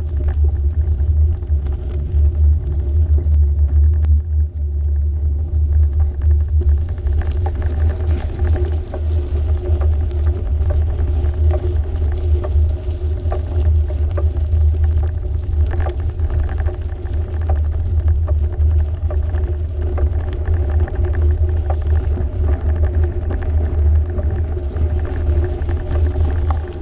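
Steady low rumble of riding on a bike, mostly wind on the microphone and rolling noise, with a faint steady hum above it and occasional small clicks.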